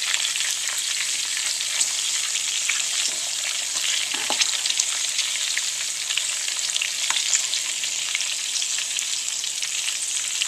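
Anaheim peppers and chopped garlic frying in hot olive oil in a small pan: a steady sizzle with frequent small crackling pops of spitting oil.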